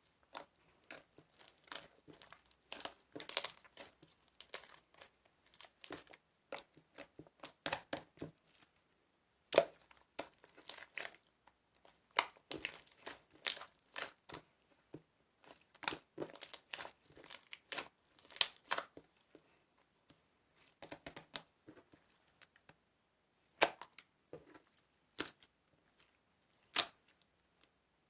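Crinkly material being handled: irregular crinkles and crackles in short clusters with pauses between them.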